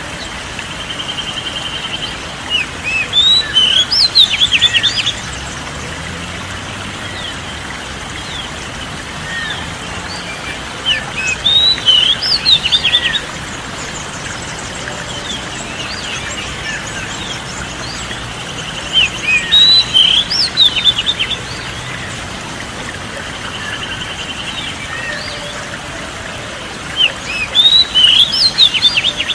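Songbird chirping and whistling in short loud bursts about every eight seconds, the same phrase coming back each time as if looped, with a softer buzzy trill between the bursts over a steady background hiss.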